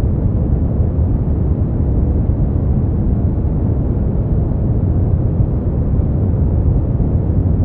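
Steady generated sleep-aid noise, sold as white noise but heavy in the low end and dull on top, so it sounds like an even, deep rumble with little hiss. It holds constant, with no changes or breaks.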